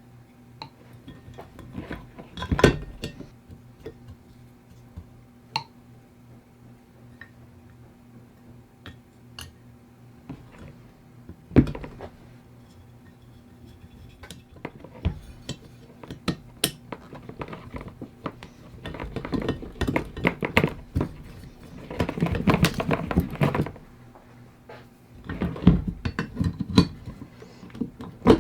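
Metal parts and tools clinking and knocking against each other, with scattered single knocks and longer stretches of clattering about two-thirds of the way through, over a faint steady hum.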